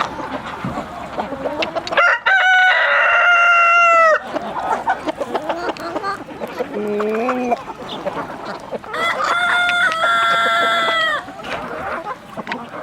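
Rooster crowing twice, each crow about two seconds long, over hens clucking, with a short, low, rising call in between.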